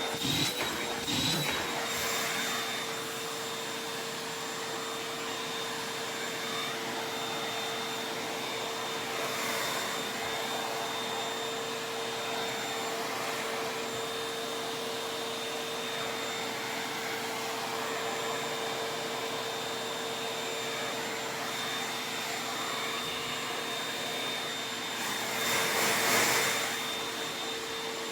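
Vacuum cleaner running steadily, a constant rushing hum with a high whine. A few sharp clicks come in the first second or two, and the suction noise swells louder for a couple of seconds near the end.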